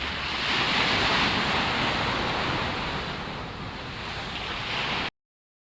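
A steady rushing noise without any call or tone, swelling about half a second in and then easing slightly. It cuts off abruptly into silence about five seconds in.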